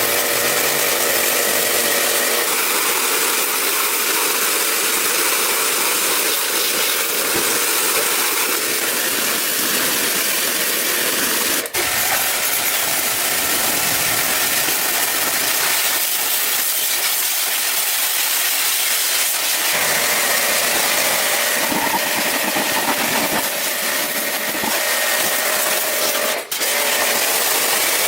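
Steady hissing machine noise, of the kind heard in workshop work with engines or power tools, broken twice by a brief dropout.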